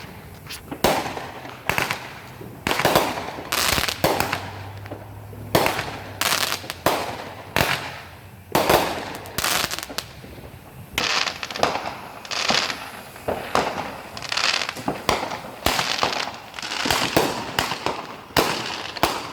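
Aerial fireworks going off in a rapid, irregular series of sharp bangs, some of them overlapping, with crackling tails after several of the bursts.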